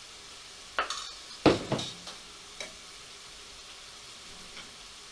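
Curry sauce frying in a hot pan with a steady faint sizzle. Between about one and three seconds in come a few sharp clatters and splashes as a ladle of base gravy goes into the pan.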